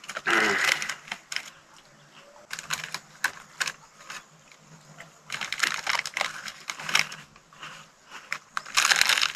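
Irregular clicks and light rustling of objects being handled, then, about a second before the end, a louder stretch of plastic crinkling as rubbish is gathered up.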